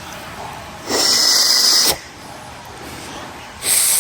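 Two bursts of loud hissing spray, the first lasting about a second and the second starting near the end.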